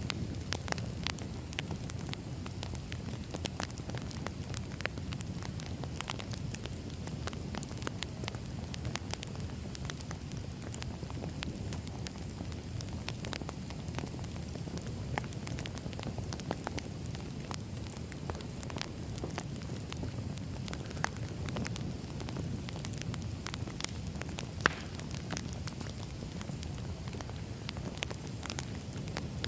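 Burning firewood crackling steadily: many small irregular pops and snaps over a low rumbling hiss of the flames, with one sharper pop near the end.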